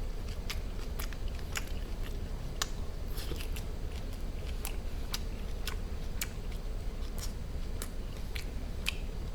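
Close-miked chewing of a duck wrap with pickled radish, chives and aged kimchi: irregular wet, crunchy clicks and smacks, about one or two a second, over a steady low hum.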